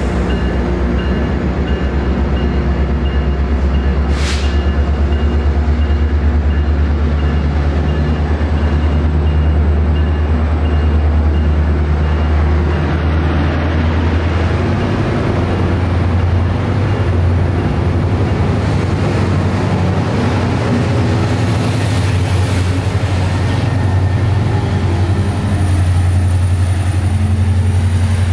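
Metrolink commuter train pulling out, pushed by its diesel locomotive at the rear: a steady, loud, low engine drone under the rolling noise of the bilevel coaches. There is a brief hiss about four seconds in.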